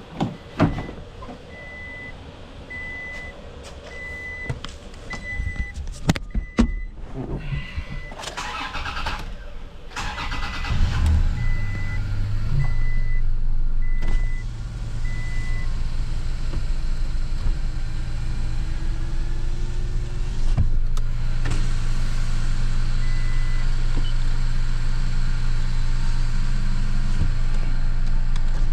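The 2022 Toyota Tacoma's 3.5 L V6 being started and then idling steadily for the rest of the time. For the first half an even vehicle warning chime beeps about once every three-quarters of a second, and there are a few knocks before the engine catches.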